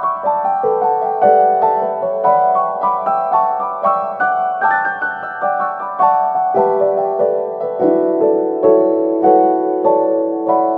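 Background piano music: a steady stream of quick notes, each struck and fading, over longer held lower notes.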